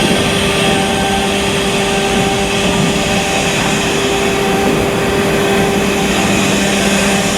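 Steady, loud machinery noise with a constant hum held at a few fixed pitches.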